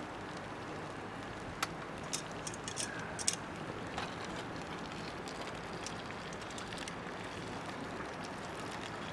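Wood fire burning in a small camp fire stand: a steady hiss with a handful of sharp crackles and pops, bunched between about a second and a half and three and a half seconds in.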